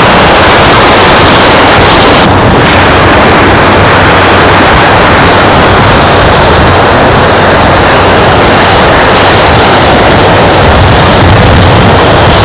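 Loud, steady rushing noise of wind on the microphone and surf along a sandy beach.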